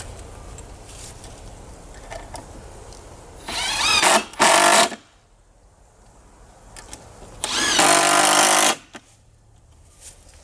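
Power drill driving screws in two runs of about a second each, about a third of the way in and again later; the first rises in pitch as the motor spins up and stops briefly before going on.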